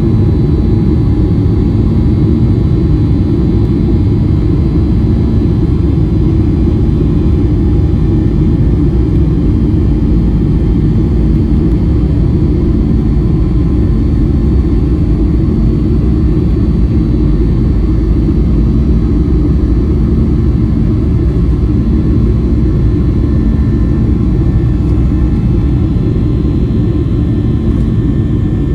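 Steady in-flight cabin noise of a Boeing 737-800: a loud, even rumble of airflow and its CFM56 jet engines, with a few faint steady whining tones above it.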